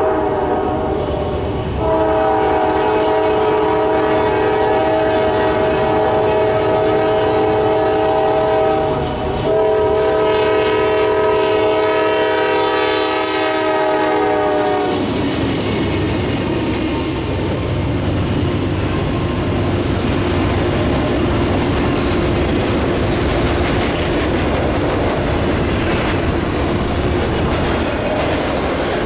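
Air horn of a GE Dash 9-40CW freight locomotive sounding a chord in long blasts, the last of them ending about fifteen seconds in with a slight drop in pitch as the locomotive passes. After that the locomotives and freight cars rumble by, with the wheels clicking over the rail joints.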